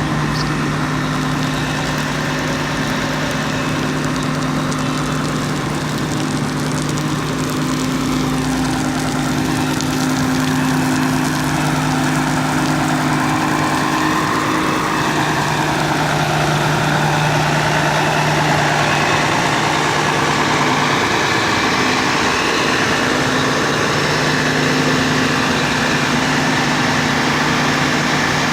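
Fire truck engine running steadily at idle, with a faint higher tone that wavers briefly partway through.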